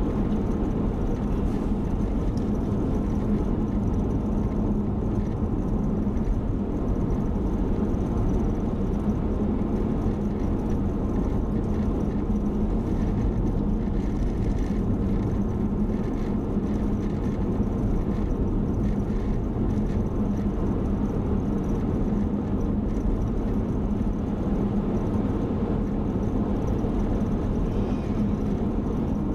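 Steady road and engine noise inside a moving car's cabin, with a low hum that holds at one pitch.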